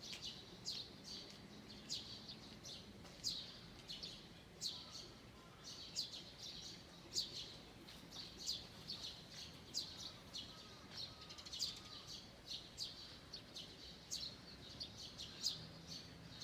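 Several birds singing, with quick high chirps repeating every half second or so and a few softer warbling notes lower down, over a faint steady background hum.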